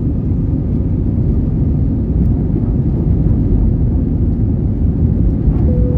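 Airbus A320's IAE V2500 engines and rushing air heard from inside the cabin as a steady, loud, low rumble during the takeoff climb. A short steady tone joins in near the end.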